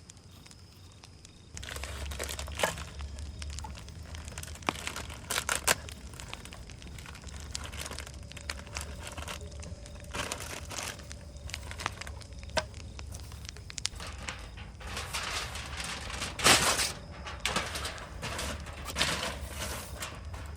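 Rustling and crinkling handling noises with scattered sharp clicks, over a low steady hum that comes in about a second and a half in.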